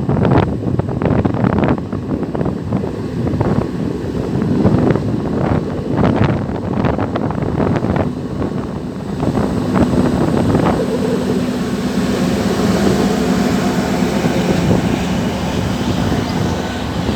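Diesel multiple unit train running close by: irregular knocks and clatter over a heavy rumble at first, then a steady engine hum with a rising hiss from about ten seconds in.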